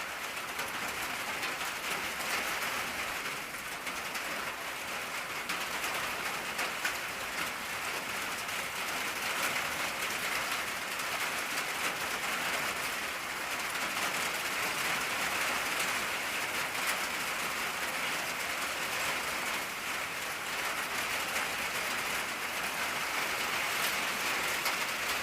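Steady rain drumming on an old tin roof, a dense patter of drops on the metal.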